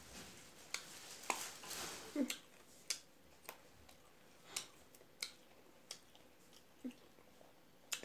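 Faint mouth sounds of a person chewing food: soft wet clicks and smacks spaced about half a second to a second apart, with one longer breathy sound about a second in.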